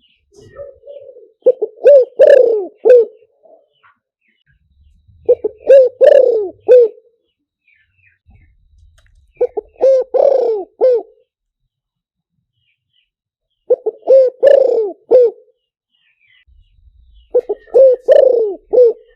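Spotted dove cooing: five phrases of several low coos each, one about every four seconds.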